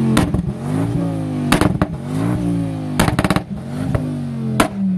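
Tuned Ford Focus ST revved hard several times, the engine pitch climbing and dropping back, with loud bangs and rapid crackling from the exhaust as each rev falls away: overrun pops from its flame tune.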